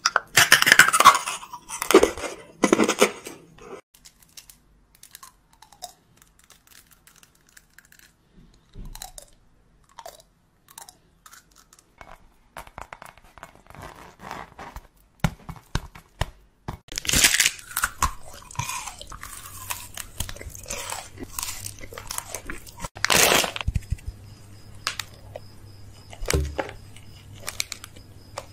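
Close-miked eating: bites and crunchy chewing of various snack foods, a series of irregular crackly crunches, loudest at the start and in the second half.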